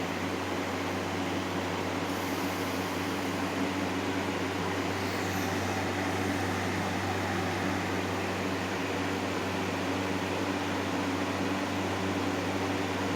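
2007 Hawaiian Breeze FB50-A3 20-inch box fan running on medium speed: a steady rush of air over a low, even motor hum.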